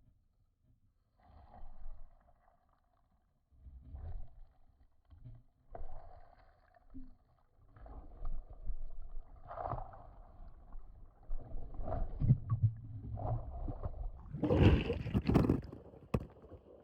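Muffled underwater gurgling and rumbling of churning water and bubbles beneath a small waterfall, heard underwater. It comes in uneven surges that grow busier after several seconds and are loudest a little before the end.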